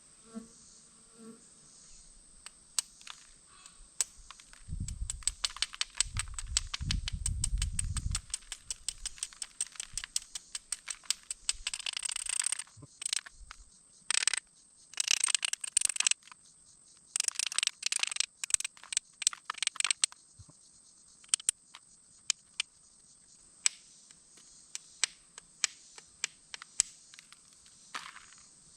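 Glass being knapped into an arrowhead with a bopper: many sharp clicks and taps as the tool works the edge, rapid and dense in the first part and sparser later, with a few short scratchy scraping bursts while the platform is set up.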